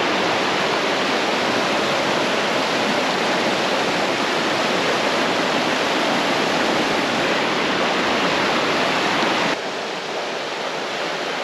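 Loud, steady rush of falling water, a waterfall or cascade on a creek. Near the end it cuts abruptly to a quieter, softer rush of water.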